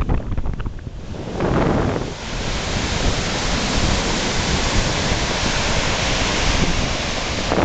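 Lake Michigan surf breaking and washing up the beach in strong wind, with wind buffeting the microphone throughout. A long hissing wash of surf builds about two seconds in and runs on.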